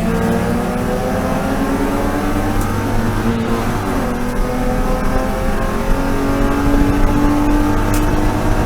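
BMW E36 M3 race car's straight-six engine running hard on track. The pitch dips about halfway through, then climbs steadily through the gear for the last few seconds.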